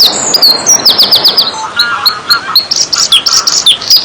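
Small songbirds chirping busily: many short, quick notes and falling whistles overlap, some in rapid runs of repeated notes.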